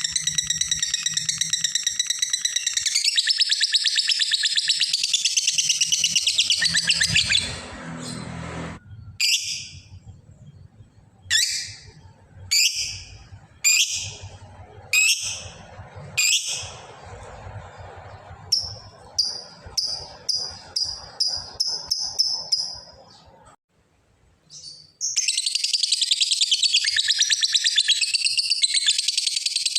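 Lovebird giving its long 'ngekek' chattering trill, the call used to challenge a rival. It breaks off for about six separate sharp calls a second or so apart and a quick run of chirps, falls silent briefly, then the rapid trill starts again near the end.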